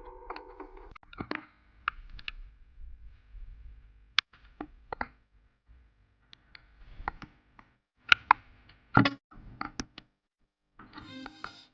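Scattered sharp clicks and knocks at irregular intervals, with a faint low rumble in the first few seconds and a brief near-silent gap near the end.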